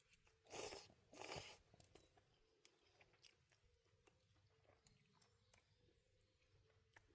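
A person slurping Morioka reimen cold noodles twice in quick succession, about half a second and a second in, followed by faint chewing.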